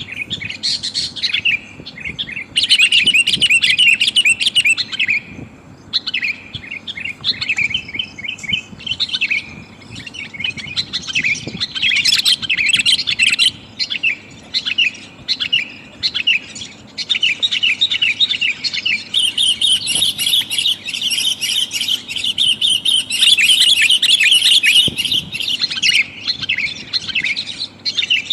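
Sooty-headed bulbul (kutilang) calling in rapid runs of short chattering notes, with short pauses in the first half and almost unbroken calling in the second. It is presented as a female's call to males, used as a lure sound.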